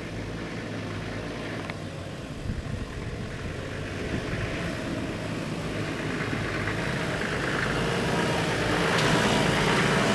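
A vehicle running with engine and road noise, growing louder toward the end and cutting off abruptly.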